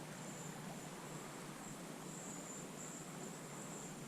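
Insects trilling: a steady high-pitched buzz that swells and fades, over a faint hiss.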